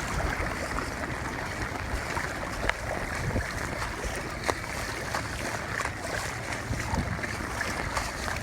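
Steady rushing noise of heavy, wind-driven rain, with scattered small taps.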